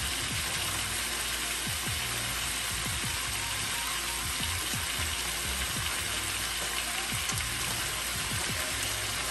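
Oil sizzling steadily in a skillet of potatoes, sausage and onions as frozen bell pepper strips are dropped in, which cools the grease. Background music with a low bass line plays under it.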